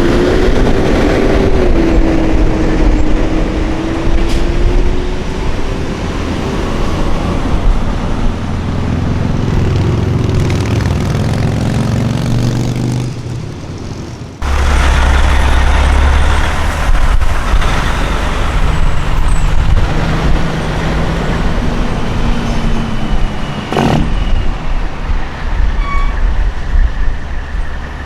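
Semi trucks driving past, diesel engines running and tyres on the road, with the engine pitch sliding as they pass. The sound changes abruptly about halfway through, then another truck goes by.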